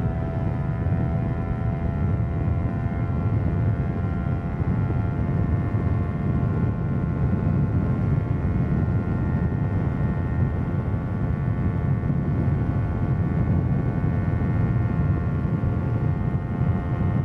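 Kawasaki Ninja 400's parallel-twin engine running through a Yoshimura aftermarket exhaust at a steady cruise, a low rumble with an engine note that holds nearly constant.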